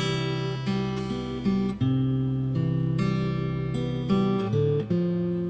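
Acoustic guitar strummed in a slow accompaniment, moving back and forth between chords with a fresh strum every second or so.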